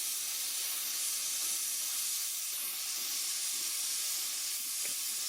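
Gas welding torch burning with a steady hiss at a moderate flame, heating a galvanized steel rod before the weld.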